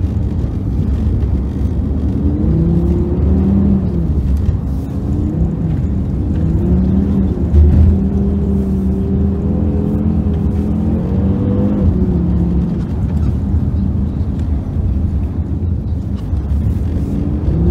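Car engine heard from inside the cabin, its revs rising and falling again and again as the car is driven hard through turns on ice, over a steady low rumble.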